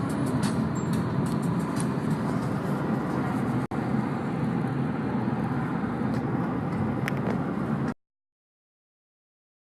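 Steady road and engine noise inside a moving car, with no distinct events; it cuts off abruptly about eight seconds in, leaving silence.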